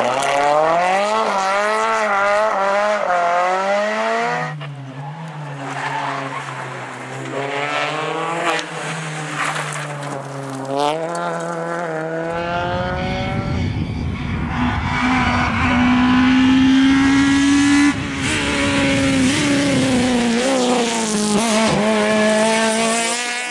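Rally car engines revving hard, their pitch climbing and dropping again and again through gear changes, the sound switching abruptly to a different car about 4 and 12 seconds in.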